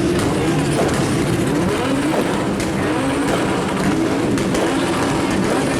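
Turbocharged drift car engine revving, with sharp exhaust pops and bangs from its anti-lag system.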